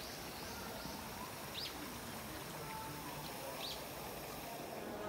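A few short, high bird chirps, a second or two apart, over a steady background of outdoor noise.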